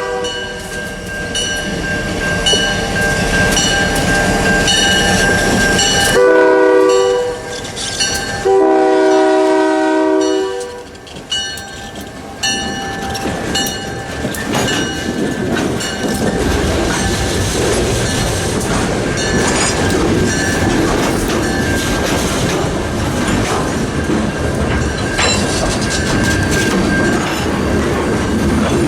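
Freight locomotive air horn sounding at a crossing, with two blasts about six and nine seconds in, over a bell ringing in a steady rhythm. The train then passes, its wheels clicking and rumbling over the rail joints.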